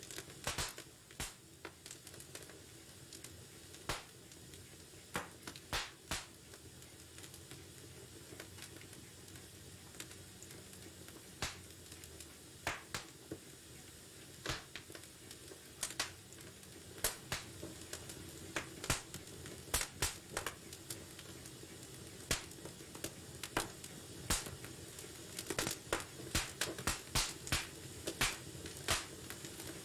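Wood fire in a fireplace burning with irregular sharp crackles and pops over a low steady hiss, the pops coming thicker in the second half.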